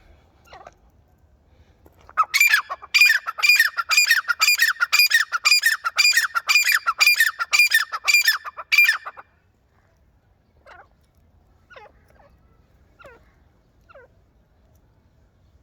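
Francolin (teetar) calling: a loud, rapid run of sharp repeated notes, about four a second, lasting some six seconds, then a few faint single calls.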